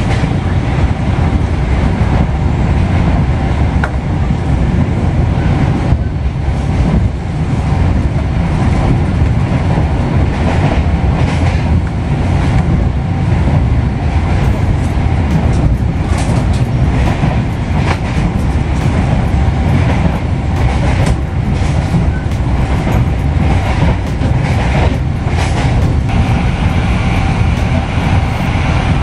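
Inside a passenger coach of the KA Jayabaya train while it runs: a steady low rumble of the wheels and body, with irregular clicks and knocks from the wheels over rail joints that grow busier about a third of the way in.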